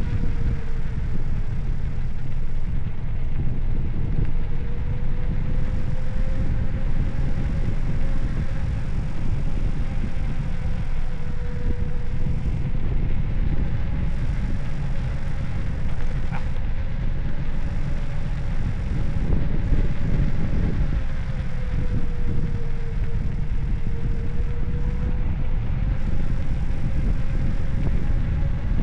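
Wind buffeting the microphone of a camera on a moving bicycle: a steady low rumble of air noise. Under it runs a faint hum that slowly wavers in pitch, with a single small click midway.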